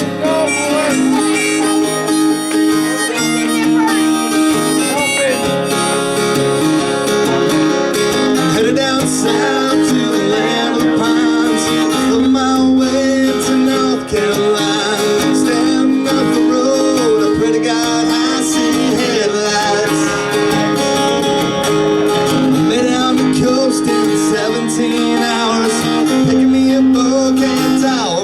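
Live acoustic music: a harmonica plays sustained, wavering melody notes over strummed acoustic guitar, an instrumental country-folk introduction.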